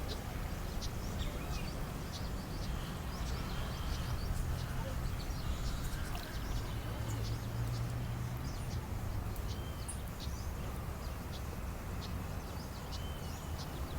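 Many small birds chirping and calling, short quick notes throughout, over a steady low rumble.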